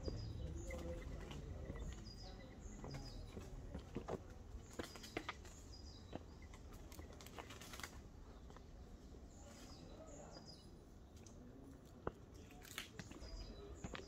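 A small bird chirping repeatedly: short, high, downward-sliding notes coming every second or so, with a few faint taps or steps underneath.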